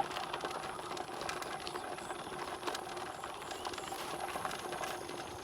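Bicycle riding over a rough surface: frame and parts rattling with many small clicks, and the ticking of the freewheel ratchet, over steady rolling noise.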